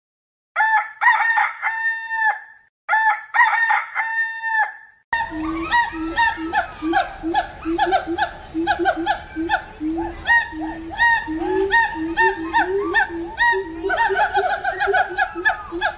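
A rooster crowing twice, each crow about two seconds long. About five seconds in, a monkey starts chattering in quick, repeated short cries that keep on.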